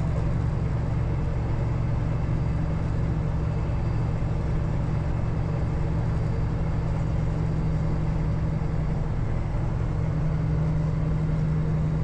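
Peterbilt semi-truck's diesel engine heard from inside the cab, a steady low drone as the truck climbs a steep grade.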